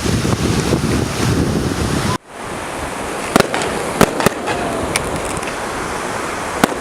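Wind rumbling on the microphone over surf, then, after a sudden break about two seconds in, fireworks going off: about five sharp bangs spread over the next few seconds, one followed by a faint falling whistle.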